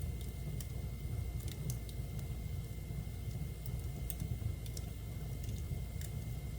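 Wood fire burning in a fireplace: irregular sharp crackles and pops, several a second at most, over a low steady rumble.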